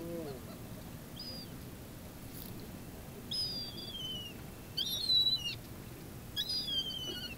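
A bird calling: three drawn-out whistled calls, each falling in pitch, about a second and a half apart, after a fainter short call.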